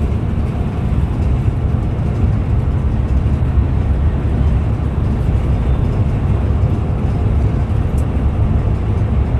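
Scania Metrolink multi-axle bus running steadily on the road: an even, low rumble of engine and tyres with no change in pace.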